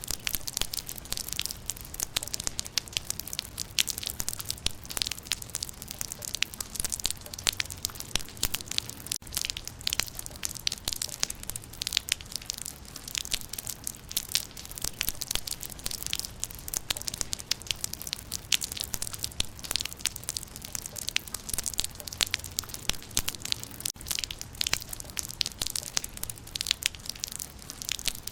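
Rain falling on leaves: a dense, irregular patter of drops striking foliage.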